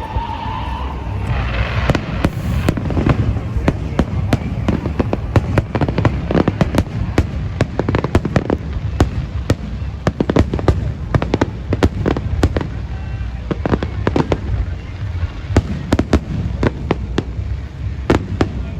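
Japanese aerial firework shells bursting in a dense finale barrage: many rapid, overlapping bangs over a continuous low rumble.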